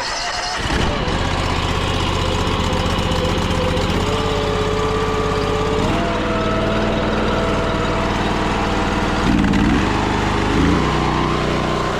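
Gas-engine pressure washer running steadily, with slight shifts in engine pitch partway through.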